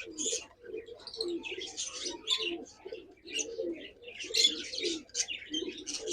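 Many domestic pigeons cooing together, a continuous low cooing throughout, with frequent short high-pitched chirps over it.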